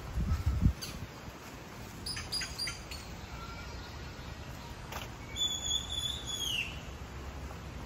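Birds calling: a few short chirps about two seconds in, then a longer whistled call that holds one pitch and drops at its end. A couple of low thumps at the start, over a steady low rumble.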